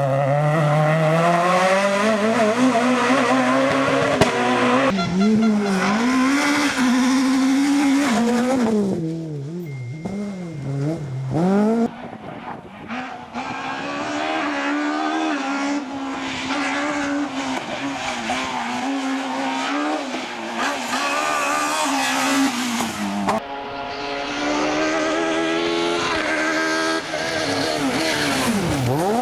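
Rally kit cars' naturally aspirated engines revving hard, pitch climbing and dropping repeatedly through gear changes and lifts as they pass, with tyre and road noise under them. Several clips follow one another, each cutting in abruptly.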